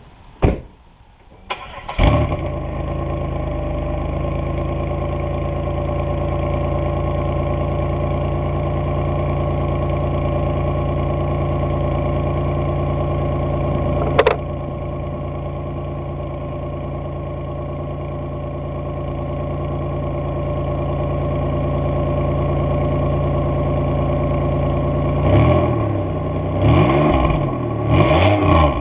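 Supercharged L67 3800 V6 in a 1997 Pontiac Grand Prix starting after two sharp clicks, then idling steadily through a cat-delete exhaust with a glasspack resonator. A single sharp click sounds midway, and near the end the engine is revved in several quick blips.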